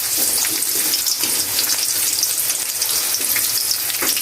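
Sliced onions frying in hot mustard oil in a karahi for beresta, a steady hiss of sizzling.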